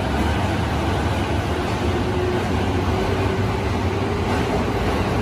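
Electric commuter train of the Yokosuka/Sobu Rapid Line running past along an underground station platform: a steady rumble of wheels and running gear with a faint hum, echoing in the enclosed station.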